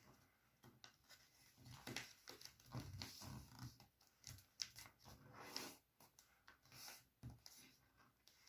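Faint, irregular paper rustling and creasing: a sheet of paper being handled and folded by hand, with short scrapes and soft taps.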